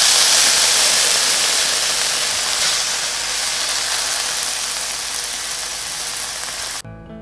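Tofu and shimeji mushrooms sizzling in a hot oiled frying pan, a steady hiss that slowly fades and cuts off suddenly near the end, where music comes in.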